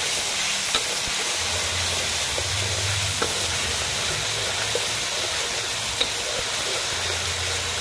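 Chilli paste for sambal tumis sizzling in hot oil in a wok while a metal spatula stirs it, with three light clicks of the spatula against the wok.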